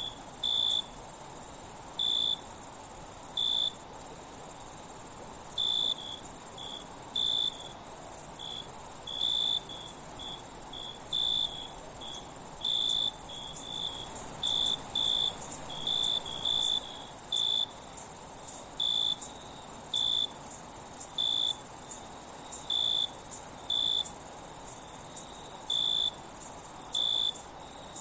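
Night insect chorus: a steady high shrill trill from many insects, with a nearer cricket chirping in short, unevenly spaced bursts. The sound dips out very briefly a few times.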